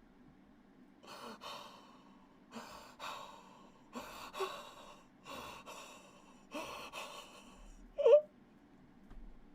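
A person breathing hard in loud, gasping breaths, five of them about a second and a half apart, then one short, sharp voiced gasp about eight seconds in, the loudest sound.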